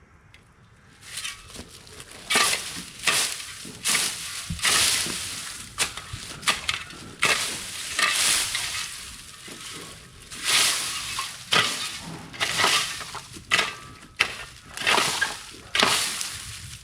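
Dry plant material crunching and rustling in irregular bursts, about one or two a second, starting about a second in.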